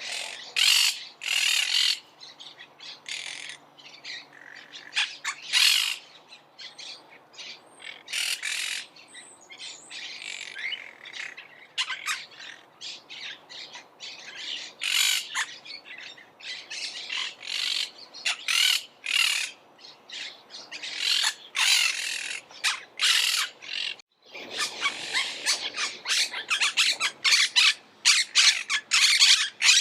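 Monk parakeets squawking: short, harsh, screechy calls in a quick, irregular series. After a brief break about 24 seconds in, the calling becomes denser and near-continuous.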